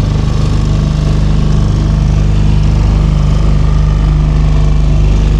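Small hire motor boat's engine running steadily at cruising speed, a loud, even low hum heard from on board.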